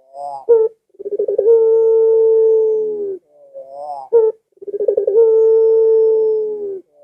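Ringneck dove (burung puter, pelung type) cooing: twice a few short rising notes followed by a long, drawn-out, steady coo of about two seconds that drops slightly in pitch as it ends.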